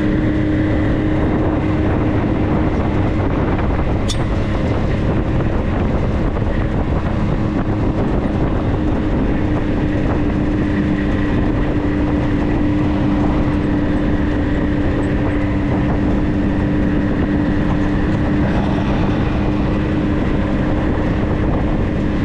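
A vehicle driving at a steady speed: constant engine drone with a steady hum, mixed with road and wind noise.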